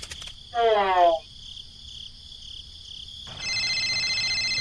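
A phone ringing: a steady electronic ring tone of several fixed pitches starts about three seconds in. Insects chirp steadily throughout, and a short gliding call sounds about half a second in.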